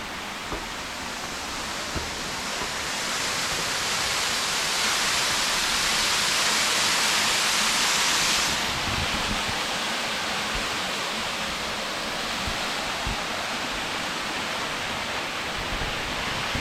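Steady rush of running water, a hissing noise that swells a few seconds in and drops off suddenly about eight and a half seconds in.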